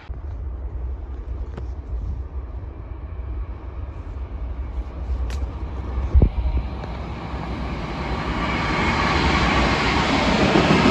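Train approaching: a low rumble, then a broad rolling noise that grows louder over the last few seconds, with one knock about six seconds in.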